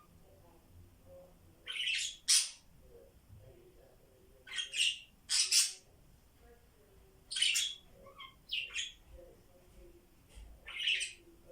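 Pet parrot giving short, harsh squawks, mostly in pairs, about four times, roughly every three seconds.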